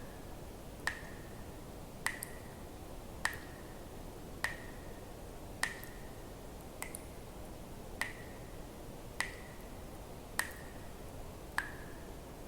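Water drops falling one at a time at an even pace, about one every second and a quarter, each a sharp plip with a short ringing tone, over a faint steady hiss.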